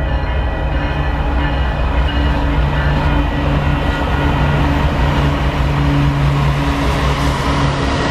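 Canadian Pacific freight train's diesel locomotives running loud under power as they approach and pass close by, a deep engine hum under rising wheel and rail noise. A horn blast dies away in the first second or so.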